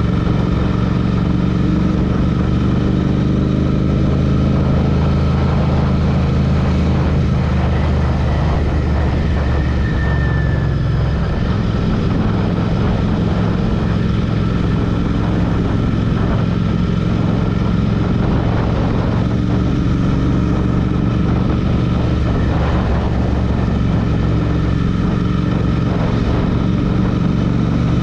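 Royal Enfield Interceptor's 648 cc parallel-twin engine running steadily while the bike is ridden. Its note shifts about ten seconds in.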